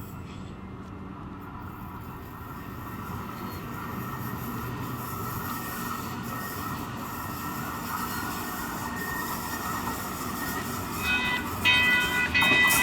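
Sacramento light rail train running on the tracks, growing steadily louder as it approaches. About eleven seconds in, a loud pitched sound made of several tones cuts in, broken into short repeats.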